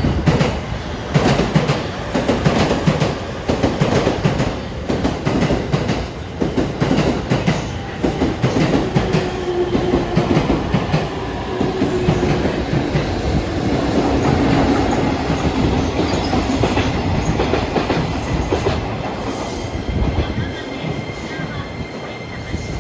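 A locomotive-hauled freight transfer of new Yokohama subway 10000-series cars passing at speed: wheels clatter rhythmically over the rail joints, settling into a steadier rumble, with a thin wheel squeal near the end.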